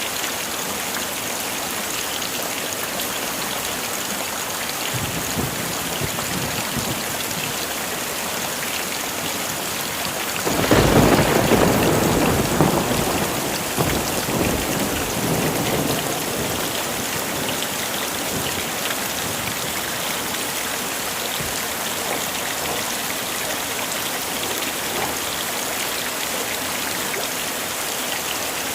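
Heavy rain falling steadily. About ten seconds in, a loud thunderclap breaks out and rumbles away over the next few seconds.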